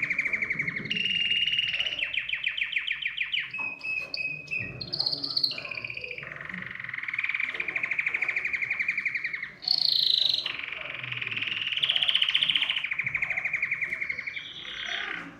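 Male domestic canary in full song: an unbroken run of fast trills and rolls that switch to a new phrase every second or two, with brief higher whistled notes between them.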